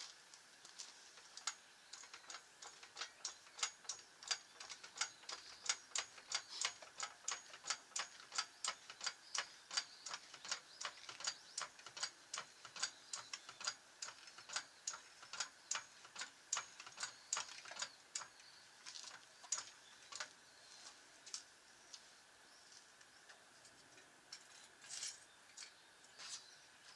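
Faint, rapid, even clicking, about three clicks a second, that thins out to scattered clicks over the last third.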